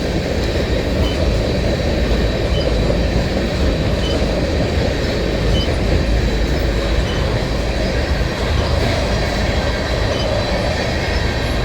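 Loaded freight train of tank cars rolling past: a steady, loud rumble of steel wheels on the rails, with a faint thin high whine held over it throughout.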